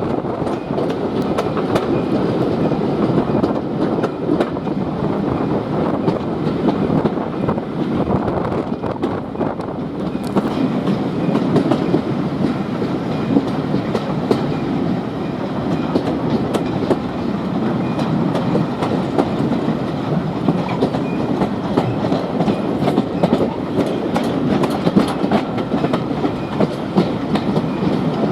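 A train running along the track, its wheels clattering and clicking steadily over the rails.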